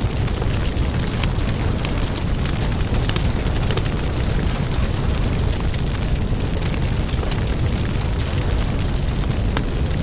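Wood fire burning in a fireplace: a steady low rumble of flames with many sharp crackles and pops scattered irregularly throughout.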